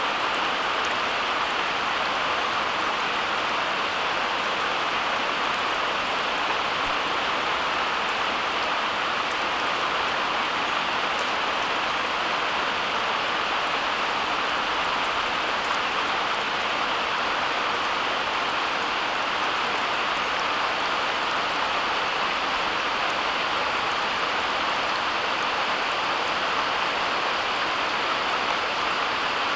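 Steady, even hiss of noise with no separate drops, knocks or changes, of the kind made by rain or rushing water.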